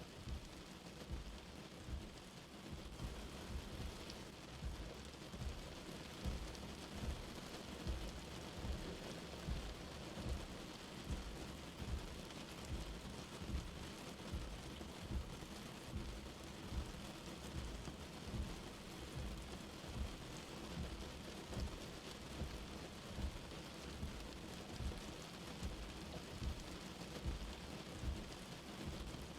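Light rain falling in a steady, even hiss, with a low rumble underneath that swells and fades at a regular pace, a little faster than once a second.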